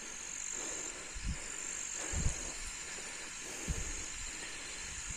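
Steady high-pitched drone of insects in the background, broken by three short, low, muffled thumps.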